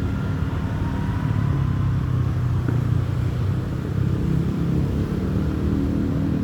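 Diesel locomotive of a Babaranjang coal train running, a steady low engine rumble.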